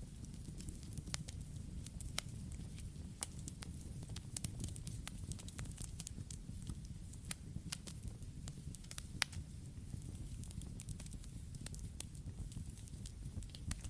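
Campfire burning, with a steady low rumble of flames and frequent sharp crackles and pops from the burning wood at irregular intervals.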